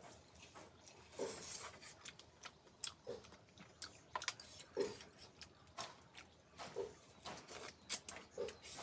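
Close-up mouth sounds of a person eating pork trotters: irregular wet chewing and smacking with small clicks, and a louder burst a little over a second in.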